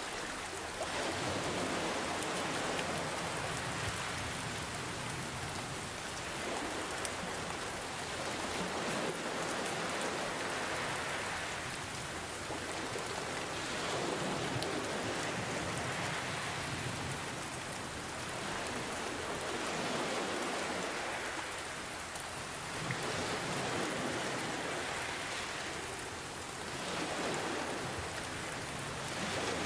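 Steady rain hissing and pattering, mixed with ocean waves that swell and fall back every few seconds.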